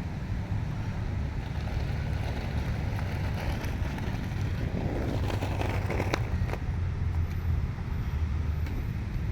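Wind buffeting the microphone outdoors: an uneven low rumble, with a few faint clicks about six seconds in.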